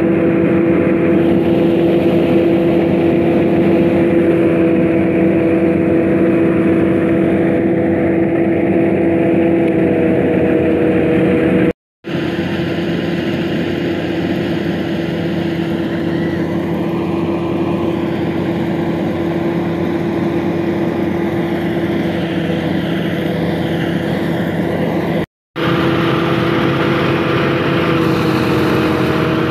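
Fiat 480 tractor's diesel engine running steadily under load, driving a paddy thresher, with the thresher's steady hum over the engine. The sound cuts out for a moment twice.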